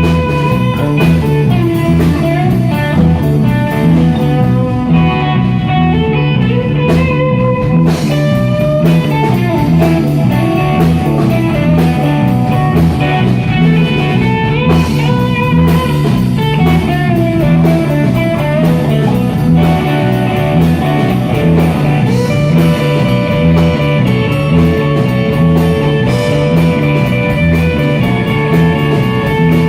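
Live rock band playing a blues-rock number: guitar lines bending over bass and a drum kit, loud and steady.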